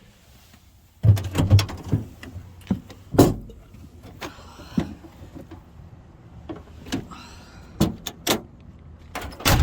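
A string of knocks, clunks and clicks from van doors and fittings being handled, the loudest near the middle and at the end, over a steady low hum that comes in about a second in.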